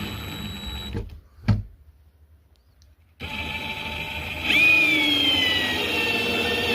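Power drill driving screws through a kayak's plastic deck into a wooden backing plate. It runs, stops about a second in with a click, then starts again about three seconds in. Halfway through it gets louder and its whine falls in pitch.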